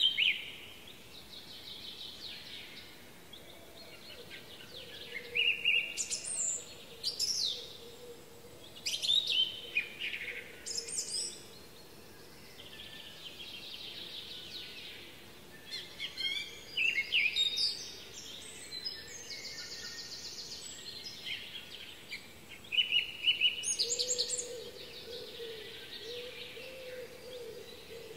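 Songbirds singing, in separate phrases of quick chirps and sweeping whistles every few seconds, over a faint even background hiss. A faint low wavering tone comes in near the end.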